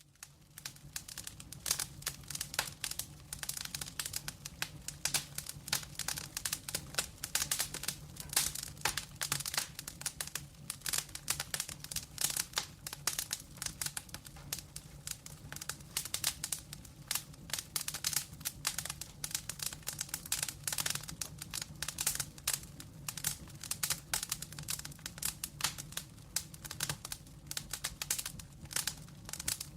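Wood fire crackling, with dense, irregular sharp pops and snaps over a steady low hum.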